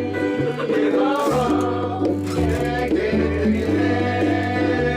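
Live band music with a bass line and guitar, and voices singing along to the chorus refrain.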